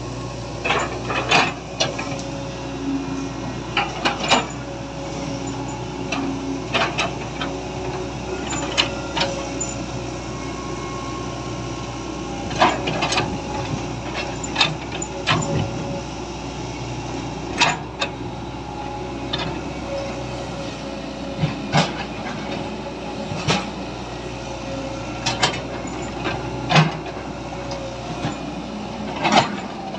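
Toys being handled, with irregular sharp clicks and knocks over a steady hum.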